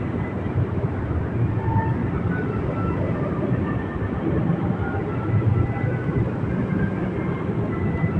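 Motorbike riding along at a steady speed: continuous low engine and road rumble with no break.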